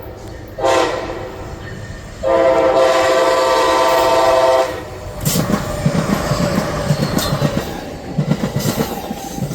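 Locomotive air horn sounding a chord in two blasts, a shorter one about a second in and then a longer one, followed by the train rolling past with wheels clacking over the rail joints.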